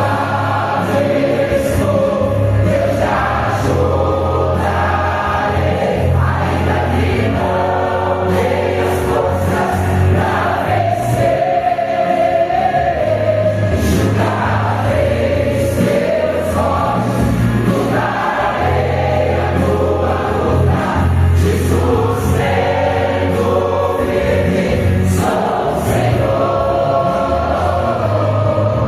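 Church choir singing a gospel hymn over instrumental accompaniment with sustained bass notes that change every couple of seconds.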